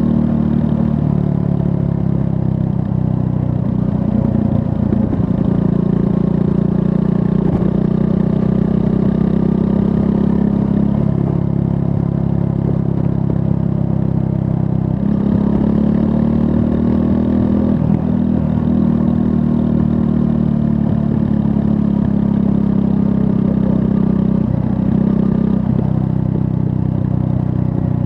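Triumph Scrambler 400 X's 398 cc single-cylinder engine running under way, its pitch shifting briefly a handful of times with changes of throttle or gear.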